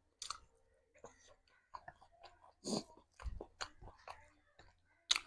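Close-miked chewing of a curry-and-rice meal: irregular wet mouth clicks and smacks with short pauses, a stronger bite about halfway through and a sharp click near the end.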